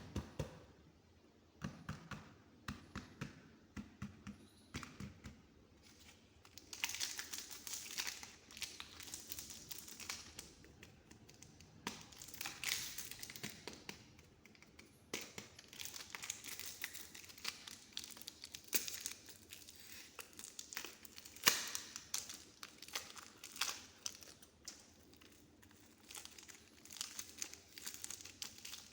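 Soft modelling clay handled close to the microphone: soft low pats and presses for the first few seconds, then crackly, crinkly squishing and pulling from about seven seconds in.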